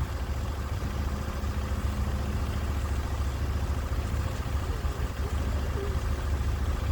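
Sawmill engine running steadily with a low, even rumble.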